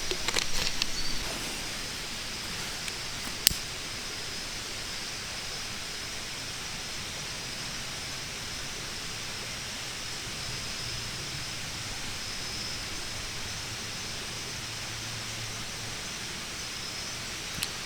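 Steady outdoor background hiss with a thin, steady high tone running through it, and a single sharp click about three and a half seconds in.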